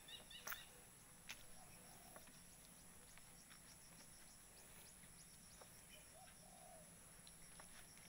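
Near silence with faint bird calls: a few brief chirps and scattered light ticks.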